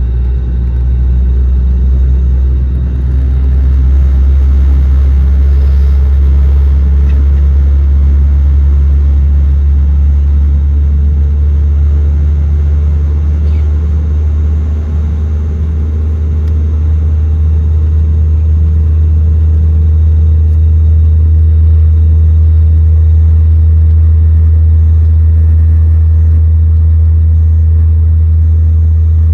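Jet airliner heard from inside the cabin as it runs down the runway for takeoff: engines and wheels making a loud, steady low rumble that grows a little louder about halfway through.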